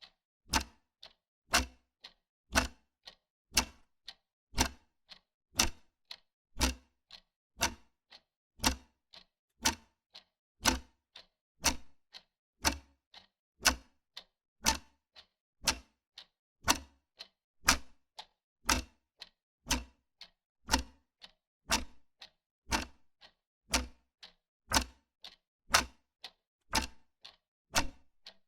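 Wall clock ticking steadily, about two ticks a second, the strokes alternating louder and softer in a tick-tock pattern.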